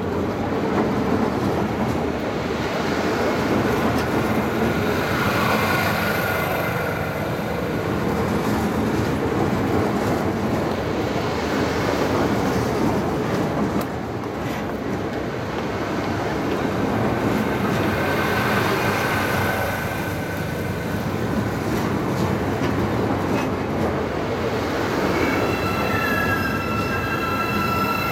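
Hyundai Rotem HRCS2 electric train running into the platform close by and slowing, with a continuous rumble of wheels and carriages passing. High steady squealing tones come in near the end as it comes almost to a stop.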